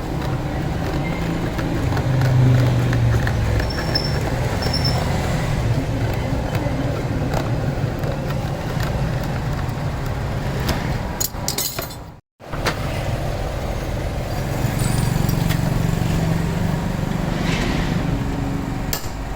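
Steady low mechanical rumble, broken by a moment of silence about twelve seconds in.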